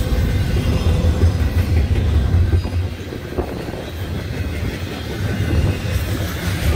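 Double-stack intermodal container train rolling past: a steady low rumble of the well cars' wheels on the rails, easing slightly about three seconds in and swelling again near the end.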